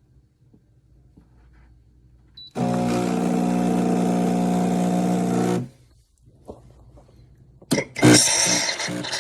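An electric coffee appliance's motor runs with a steady hum for about three seconds and stops. Near the end a click is followed by a loud hissing, rattling noise with a regular pulse.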